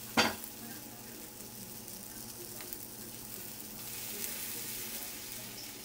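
Shredded hash-brown potatoes and sausages sizzling in a frying pan, a steady hiss that swells louder around four seconds in. A sharp tap sounds just after the start.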